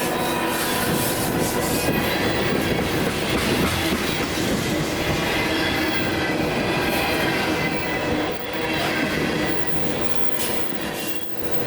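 Train cars rolling past on the rails: a steady rumble of wheels on track, with high, thin wheel squeal and some clacking over the rail joints.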